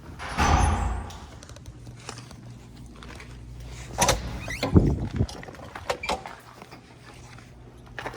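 A door being worked: a low rumble in the first second, a sharp click about four seconds in, two heavy thuds just after it, then scattered small knocks.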